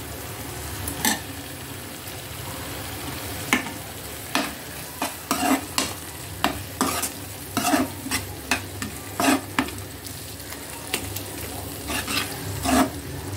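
Tomato-onion masala sizzling as it fries in a metal pan, stirred with a slotted steel spoon that scrapes and clinks against the pan unevenly, about once a second.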